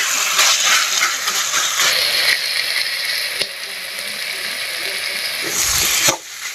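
Chicken pieces frying and sizzling in a hot kadai, stirred with a spatula that scrapes and clatters against the pan, while the meat is fried down until its released water dries off. The sound cuts off abruptly near the end.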